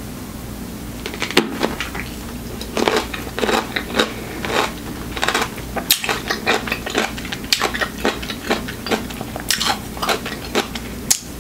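Crunching and chewing of a whole dill pickle topped with whipped cream: after a bite, irregular crisp crunches come several times a second from about a second in.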